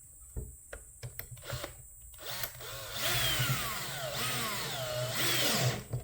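Power drill-driver with its clutch set low, about 5, running for about three and a half seconds to drive a screw, the motor's pitch falling and rising as it speeds up and slows. A few sharp clicks come before it starts.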